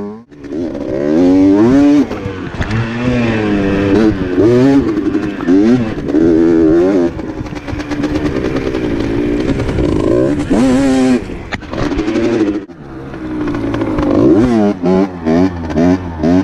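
Rieju RR dirt bike engine revving hard, its pitch climbing and falling again and again as the throttle is opened and closed. The engine note drops out briefly just after the start and again about two-thirds of the way through. Near the end come quick repeated throttle blips, about two a second.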